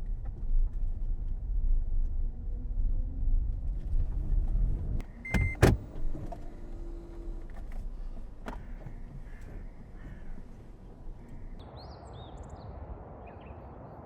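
Low rumble of a car on the move, then two sharp knocks about five and a half seconds in; the rumble gives way to quieter outdoor ambience with birds chirping near the end.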